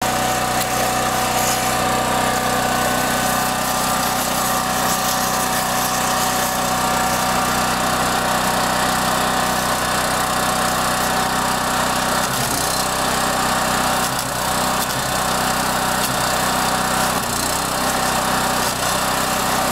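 An engine running steadily, with a constant loud hiss over it, typical of a slice torch's oxygen-fed rod burning through titanium.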